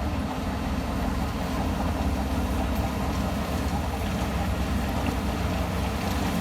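Heavy construction machine's diesel engine running steadily, a constant low rumble.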